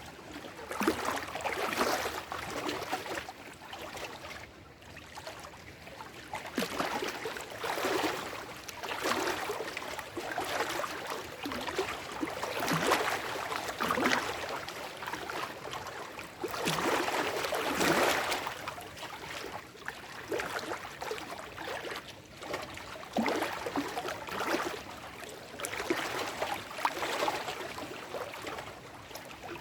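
Small lake waves washing over shoreline rocks and stones, with irregular splashes and gurgles every second or two. The strongest surge comes a little past the middle.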